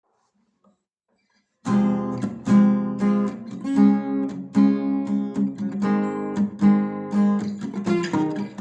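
Acoustic guitar strumming chords in a steady rhythm, starting about a second and a half in after near silence. This is the song's instrumental intro.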